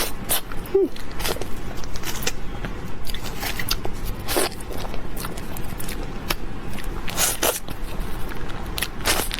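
Close-miked eating: a series of crisp bites and crunching chews at an uneven pace, a few per second.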